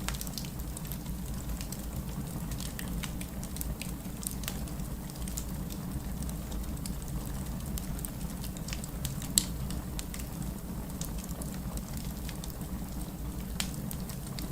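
Wood campfire burning: a steady low rush of flames with scattered small crackles and one sharp pop about nine seconds in.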